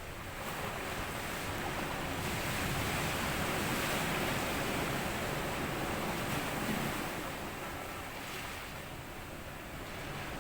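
Sea waves washing on a sandy beach: one wave swells up about half a second in, is loudest in the middle, and ebbs away near the end.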